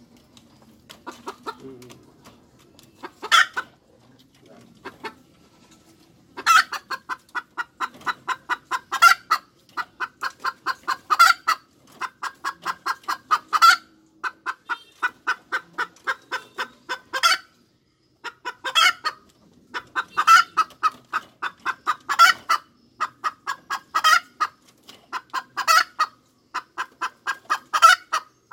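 Domestic hen cackling: quick runs of short clucks, about five a second, each ending in a louder, drawn-out note, repeating every couple of seconds. The calls are sparse in the first few seconds before the steady cackling starts.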